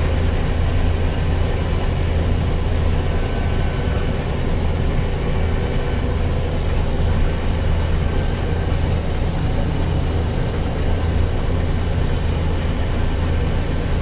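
Combine harvester running steadily with its separator and header engaged while harvesting soybeans: a constant low engine drone with mechanical noise over it.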